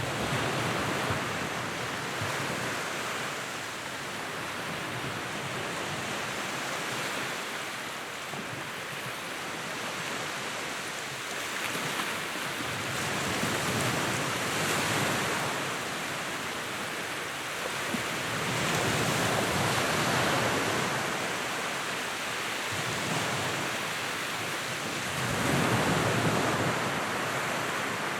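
Wood fire burning in a fireplace: a dense, steady crackle and hiss that swells louder for a few seconds at a time, around the middle and again near the end.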